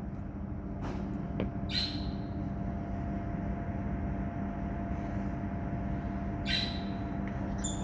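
A pet bird giving a few short, high squawks, about two seconds in and again near the end, over a steady low hum.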